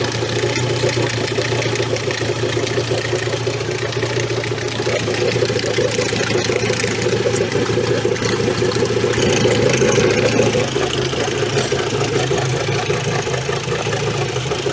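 Outboard motor idling steadily after being started.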